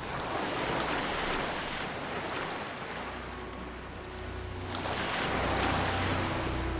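Ocean waves washing in two swells, the second building about five seconds in.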